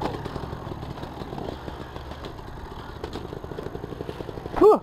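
Enduro motorcycle engine idling with an even, rapid pulse, then a short loud sound that rises and falls in pitch near the end.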